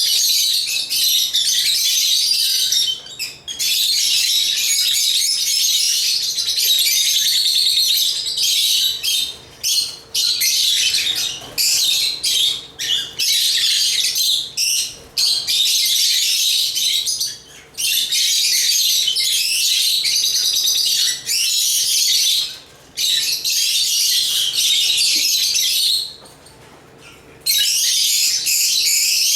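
African lovebirds chirping, a dense run of rapid, high-pitched twittering with short breaks and a pause of about a second and a half near the end.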